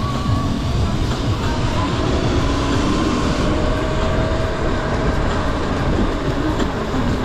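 Steady wind and road rumble from riding an electric dirt bike, with a faint motor whine that rises and falls.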